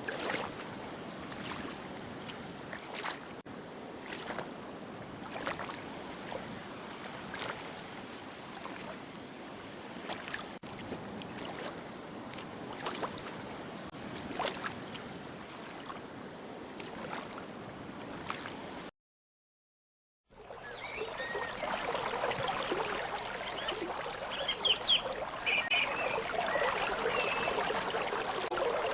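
Flowing water with small splashes and drips, broken by a second of dead silence about two-thirds through, then louder running water with a few short high chirps.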